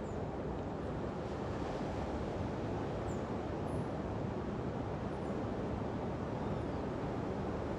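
Steady ocean surf at a beach, a constant wash of noise mixed with wind on the microphone.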